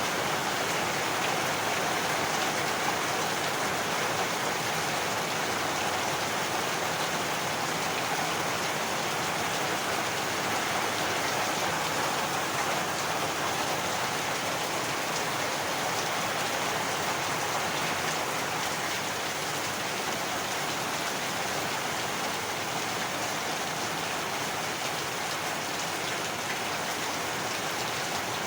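Heavy rain falling steadily on surfaces, an even, unbroken downpour.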